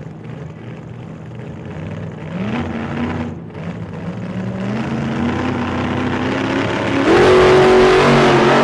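Motorcycle engine accelerating and growing louder, its pitch climbing in steps, with a sharper rise about seven seconds in.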